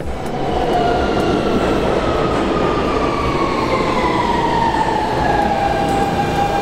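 New York City subway train pulling into a station: a steady rumble of wheels under a whine from the traction motors that falls slowly in pitch as the train brakes.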